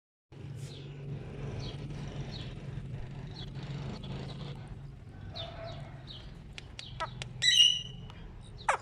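Ring-necked parakeet making soft chirps over a low steady hum, then a few sharp clicks and one loud squawk about seven and a half seconds in, followed by a short falling call near the end.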